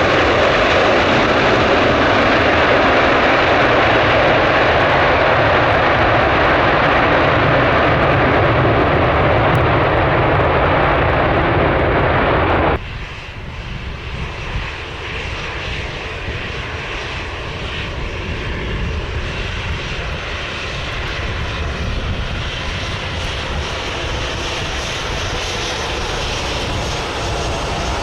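Jet airliner engine noise. A loud, steady rush cuts off abruptly about halfway through. A quieter jet sound follows and grows gradually louder.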